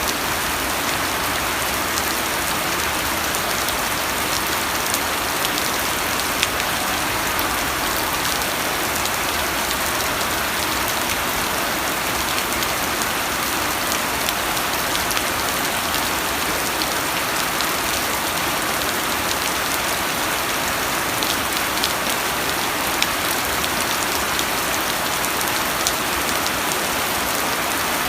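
Steady rain falling, a constant hiss with many small drop taps scattered through it.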